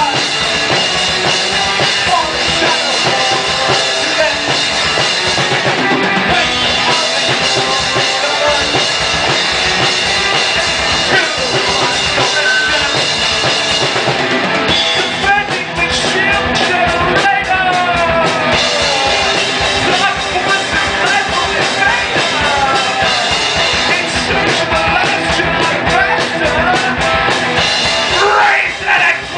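Live metal band playing without a bass guitar: electric guitar over a drum kit with fast, even bass-drum beats.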